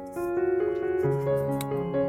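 Gentle background piano music, notes changing about every half second, with a faint rustle or tap of handling now and then.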